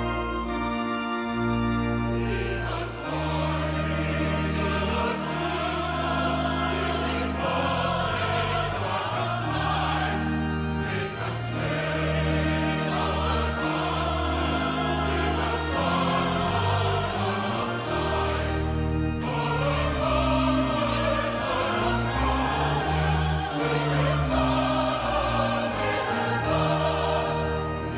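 Choir singing with orchestral accompaniment, a sustained classical or sacred piece with slow-moving bass notes.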